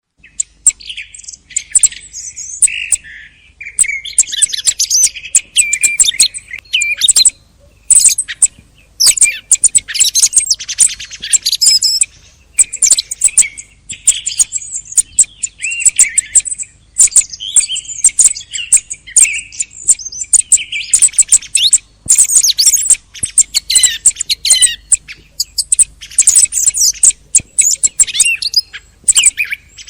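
Thrushes calling and singing: a dense, continuous run of varied high chirps and whistles, broken by many sharp clicks.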